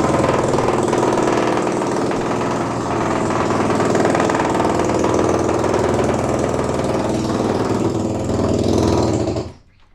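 Steady engine noise of demolition machinery working on the house, heard from inside the house. It drops out abruptly near the end.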